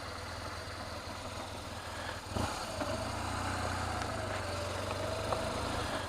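Motorcycle engine running at low speed with a steady low hum. There is a clunk about two seconds in, after which it runs slightly louder with a faint wavering whine over it.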